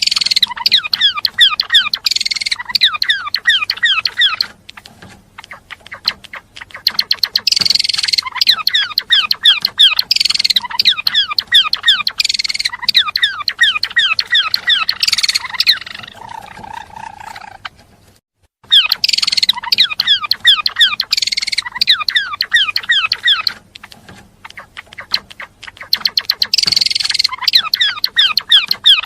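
Gelatik belong songbird singing a fast, busy song of rapid falling chirps in long runs, broken by short pauses.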